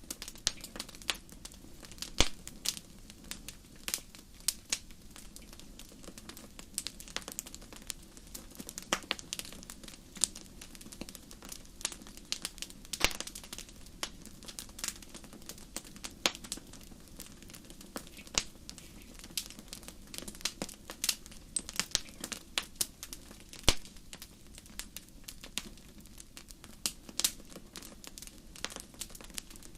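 Wood campfire crackling: irregular snaps and pops, a few of them sharper and louder, over a low, steady rumble of the flames.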